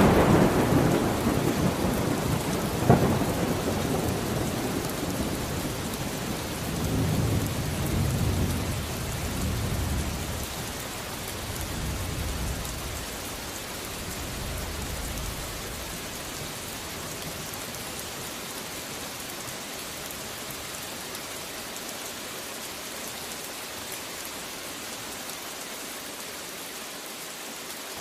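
Steady rain with thunder. The rumble of a thunderclap dies away over the first few seconds, with a sharp crack about three seconds in. Low rolling rumbles follow and fade out about halfway through, leaving only the steady hiss of rain.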